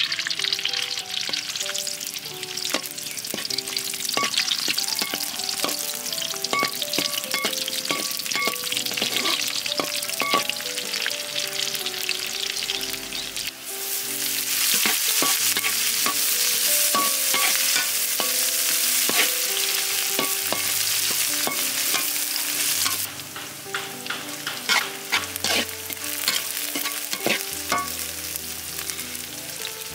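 Turtle meat sizzling in hot oil in a pan as it is stirred, with the utensil clicking and scraping against the pan. The sizzle gets louder a little before halfway and eases off again about three quarters of the way through.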